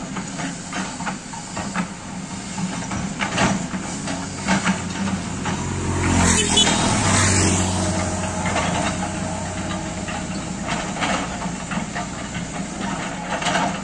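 Backhoe excavator's diesel engine running steadily under work, with scattered knocks. About six seconds in it gets louder for a second or two as the engine works harder.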